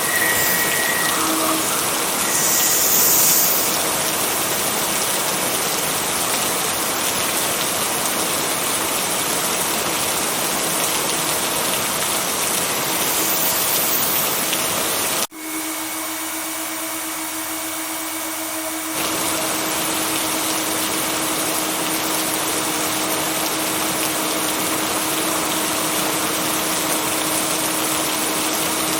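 Steady rain, an even hiss, with a faint steady hum underneath. About halfway through the sound cuts out for an instant, comes back thinner without its low end for a few seconds, then fills out again.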